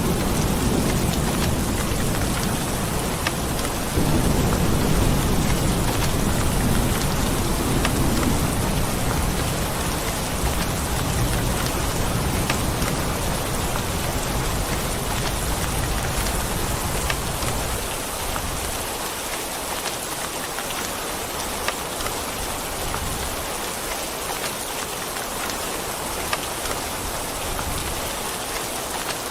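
Steady heavy rain hissing, with a low rumble of thunder that swells about four seconds in and dies away about two-thirds of the way through.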